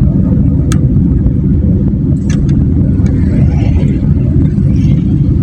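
Steady, loud low rumble of riding on a motorcycle: wind buffeting the microphone over the engine and road noise, with a few brief clicks.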